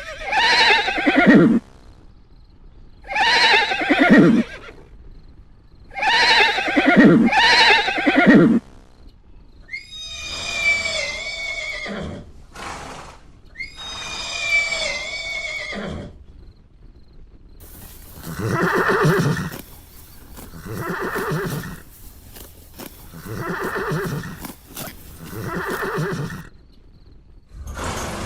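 Horses neighing: a string of separate whinnies, each falling in pitch, two of them back to back, then four shorter, lower calls at a steady pace of about one every two seconds.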